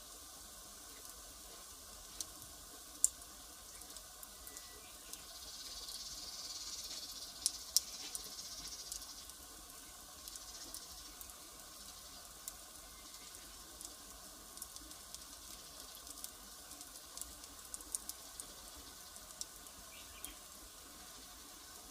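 Wood fire burning: scattered sharp crackles and pops over a steady faint hiss, with a louder hissing swell from about five to nine seconds in.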